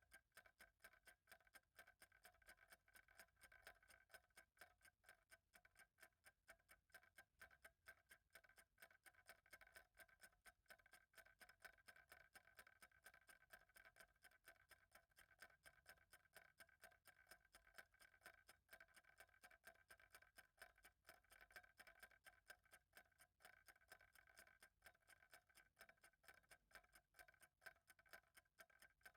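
Faint clock ticking, steady and even throughout.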